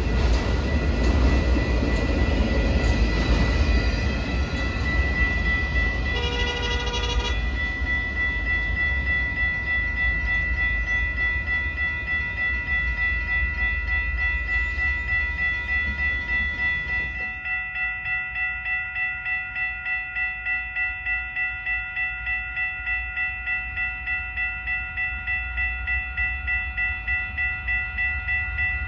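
Freight train passing a grade crossing, wheel and car noise over the steady ringing of the crossing bells. About 17 seconds in, the train noise drops away and only the crossing bells remain, pulsing evenly, with a low hum beneath.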